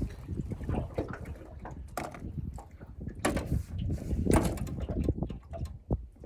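Irregular knocks, clicks and bumps over a low rumble, with the loudest knocks about three and a half seconds in.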